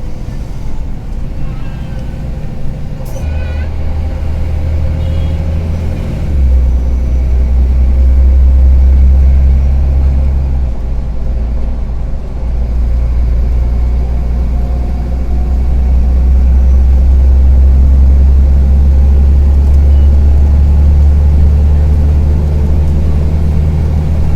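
Karsan Avancity+ articulated city bus engine running under way, a loud low drone with a rattly edge. It steps up in level about six seconds in, dips briefly around eleven to twelve seconds, then holds steady.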